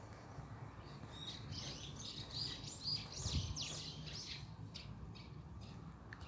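A small songbird singing a quick run of high chirping notes, starting about a second in and lasting about three seconds, over a steady low outdoor rumble, with a soft thump near the middle.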